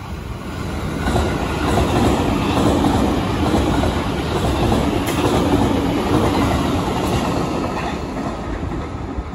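E653 series electric multiple-unit train passing through a station without stopping: wheels running on the rails with a clickety-clack over the rail joints, building over the first couple of seconds and staying loud.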